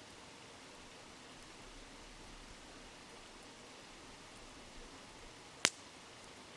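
Wood campfire burning beside a steadily murmuring river, with one sharp crackling pop from the fire near the end.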